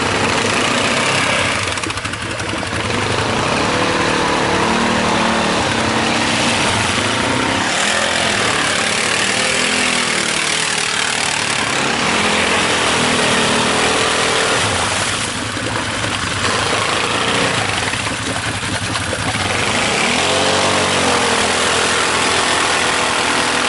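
ATV engine revving up and down several times, pitch rising and falling, over a dense steady hiss.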